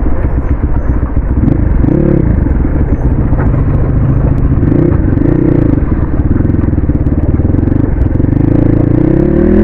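Dirt bike engine running while being ridden, its pitch rising and falling slightly with the throttle, under heavy low rumble. It revs up near the end.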